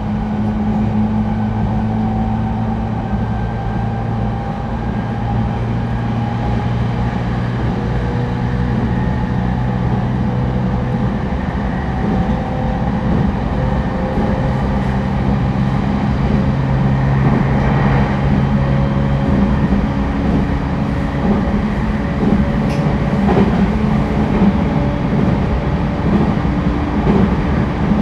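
Interior running sound of an E231-1000 series (refurbished) commuter train travelling at speed: a steady rumble of wheels on rail, with faint motor tones that slowly rise in pitch and a few brief clunks in the second half.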